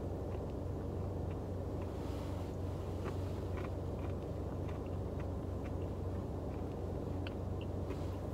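A steady low hum, with faint scattered clicks and taps from a plastic spoon and cup as a Dairy Queen Blizzard is tasted.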